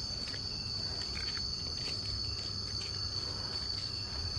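Night chorus of crickets or similar insects: a steady, unbroken high-pitched trill with faint scattered ticks.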